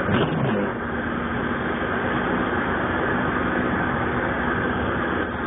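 Steady hum and road noise inside a moving car's cabin while it drives on a snowy road.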